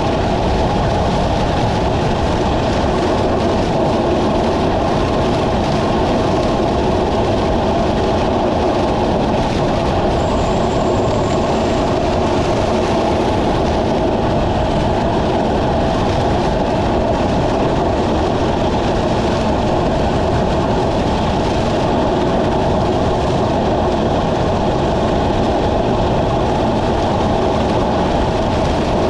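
Steady, loud rushing of wind and road noise from riding at speed, unbroken throughout.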